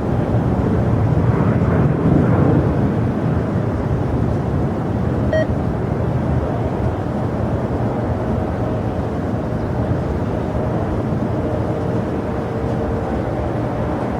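Jet airliner engine noise: a steady rumble that eases slightly over the stretch.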